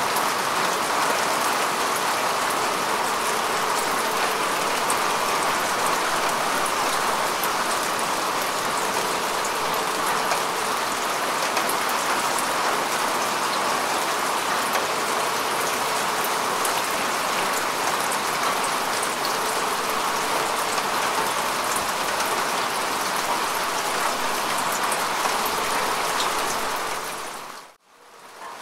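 Steady rain falling on grass and earth: a dense, even hiss of drops with fine patter. About a second before the end it drops briefly to near silence and fades back in.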